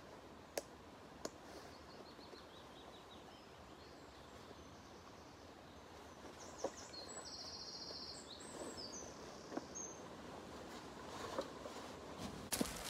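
Faint birdsong in woodland: a run of short high chirps early on and a quicker trill a few seconds later, over a quiet background hiss. A few sharp clicks and small handling sounds are heard nearby.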